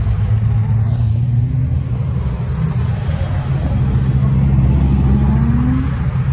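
Supercar engines running at low revs as the cars pull away one after another, a Ferrari F40, a Porsche Carrera GT and a Dodge Viper SRT. Near the end, one engine revs up and its pitch rises.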